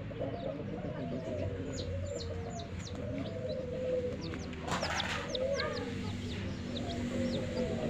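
Chicks peeping: many short, high, downward-sliding peeps, over a hen's low, wavering clucks. A brief rustling burst comes about halfway through.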